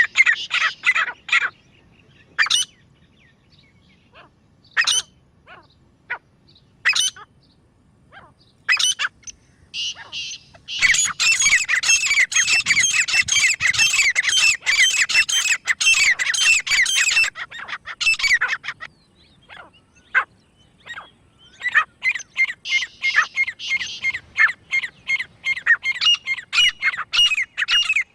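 Grey francolins calling: loud, rapid runs of sharp repeated notes. Scattered single calls fill the first ten seconds, a dense stretch runs from about eleven to eighteen seconds, and another fast run starts near the end.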